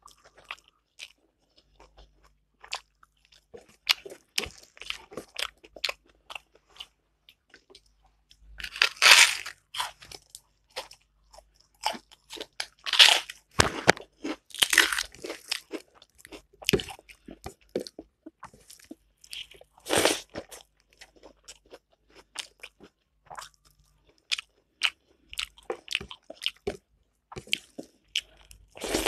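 A person chewing mouthfuls of food close to the microphone: irregular wet smacks and clicks of the mouth, with a few louder bursts of eating noise spread through.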